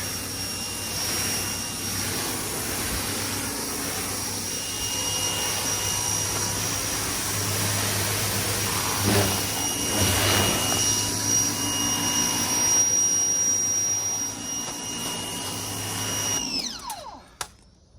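Ryobi 1600 PSI electric pressure washer running, its motor whining steadily over the hiss of the water spray as the cars are pre-rinsed. Near the end the motor winds down with a falling whine and stops.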